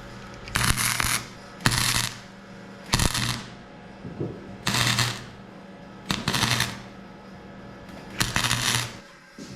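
Wire-feed welder laying short welds on the truck's exhaust tubing: six crackling bursts, each under a second, with the welder's hum sounding only while the arc is struck.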